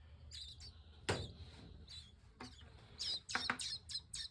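Nestling blue jays giving short, high chirps, scattered and irregular, with a single knock about a second in.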